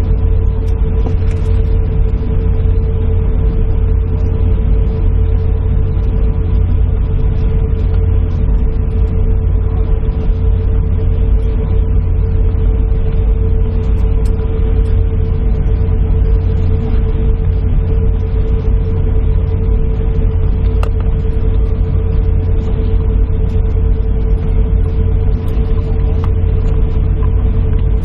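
Steady low rumble and hum of an airliner heard from inside its cabin, with a constant tone running through it and no change in pitch or level.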